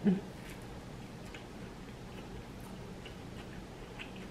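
Close-up mouth sounds of a person chewing a bite of veggie cheeseburger: faint, scattered soft clicks, after a brief low sound at the very start.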